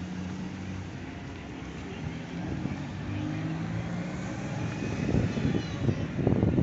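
Town-centre street traffic: car engines running, with a low rumble that grows louder near the end as a vehicle comes close.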